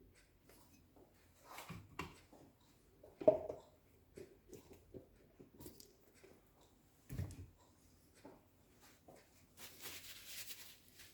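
Scattered light clicks and knocks of engine parts being handled on the bench during assembly, with one sharp knock about three seconds in, a dull thump about seven seconds in, and a short hiss near the end.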